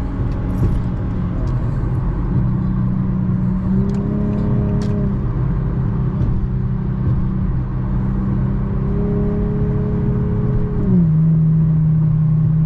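Infiniti G37's muffler-deleted V6 engine pulling hard at highway speed, heard from inside the car. Its pitch steps up a little about four seconds in, then drops and gets louder near the end.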